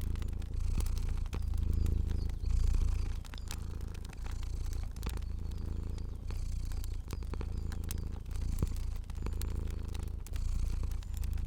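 A cat purring, a low rumble that swells and dips with each breath about every second or so, with small sharp crackles of a fire scattered over it.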